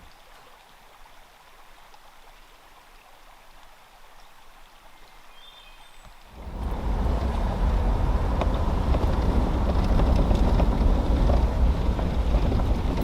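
A faint hiss for about six seconds, then the road noise of a vehicle on a gravel logging road starts suddenly: a steady low rumble of tyres and body.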